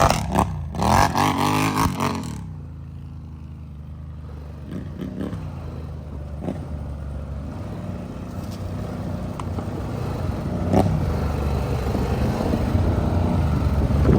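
ATV engine revving hard for about two seconds, then dropping to a low, steady running that slowly builds again toward the end. A few short knocks and rattles come through along the way.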